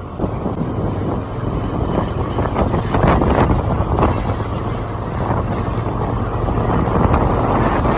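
Motorcycle riding at road speed: a steady engine drone under heavy wind rushing and buffeting on the microphone.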